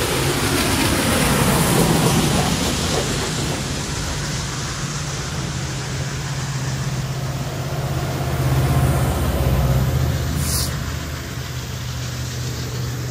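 A train passing at close range: Union Pacific Big Boy 4014, a 4-8-8-4 articulated steam locomotive, then its water tender, a diesel unit and passenger cars roll by, with steady wheel and rail noise and a low engine hum that swells as the diesel goes past. A brief hiss comes about ten seconds in.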